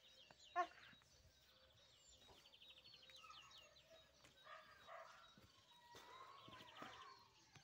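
Faint songbirds singing, with rapid high trills about three seconds in and again near the end. A short pitched squeak comes about half a second in.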